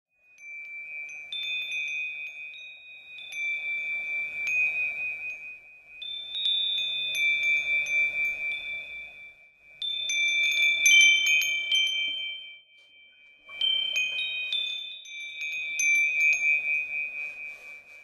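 Wind chimes ringing: clusters of light metallic strikes with long ringing high tones, coming in waves every few seconds, with a brief lull about two-thirds of the way through.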